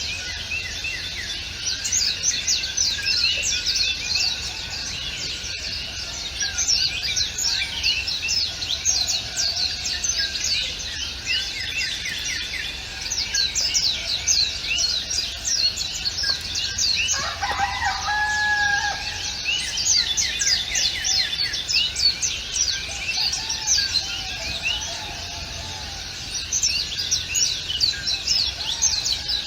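A dense chorus of many small birds chirping, quick high notes overlapping without a break. About two-thirds of the way through, one lower, longer call stands out briefly.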